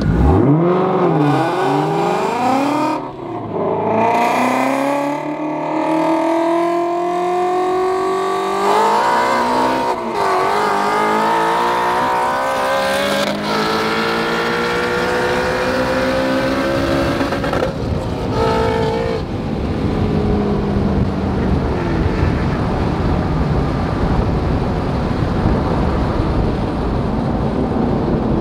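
Modified Ford Shelby GT350 5.2-litre flat-plane-crank V8 at full throttle on a drag-strip pass. It revs up through the gears, each upshift a brief break before the pitch climbs again. About 20 seconds in the revs fall away as the throttle is lifted at the end of the run.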